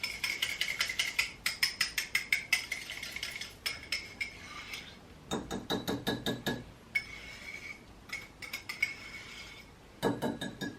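Metal spoon clinking and scraping against crockery while mixing mug cake ingredients, in quick runs of sharp taps with a light ring: one run at the start, another about five seconds in, and a last one near the end.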